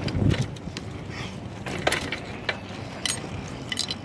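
Bicycle being ridden, giving irregular mechanical clicks and rattles over a low rumble that is heavier in the first half second.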